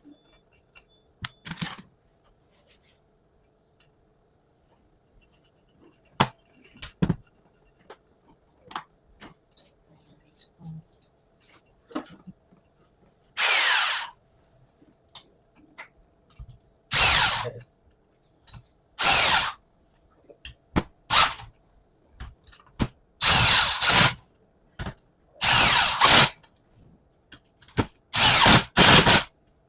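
A handheld power driver runs in short bursts, first a few seconds apart, then every second or so near the end, driving in the screws of an AD-9 air dryer housing as it is reassembled. Before the bursts there are scattered clicks and taps of parts and tools being handled.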